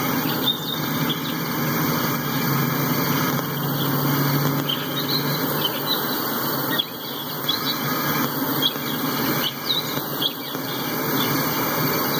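Freight train of tank cars rolling past, a steady rumble and clatter of steel wheels on the rails, with short high-pitched wheel squeals now and then.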